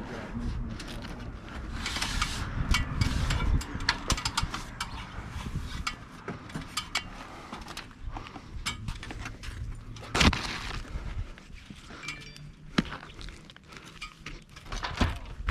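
Hand work on an asphalt shingle roof: scattered metal clicks, clinks and scrapes as damaged shingles are pried loose and their nails worked free, with one heavier knock about ten seconds in.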